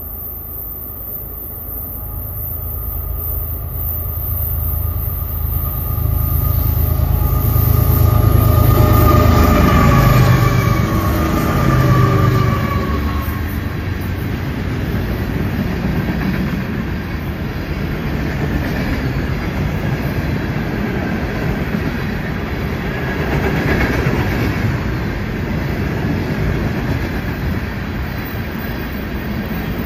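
Florida East Coast freight train's two GE ES44C4 diesel locomotives approaching and passing close by, the engine rumble building to its loudest about eight to twelve seconds in, with a whine that falls in pitch as they go by. Then the steady rumble and clickety-clack of hopper cars rolling past.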